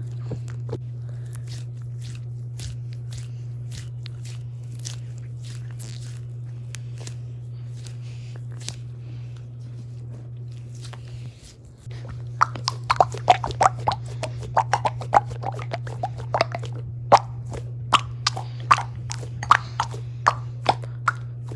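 Squishy toys being squeezed and handled close to the microphone, giving irregular crackling and clicking, over a steady low hum. About halfway through, the crackles become much louder and come thick and fast.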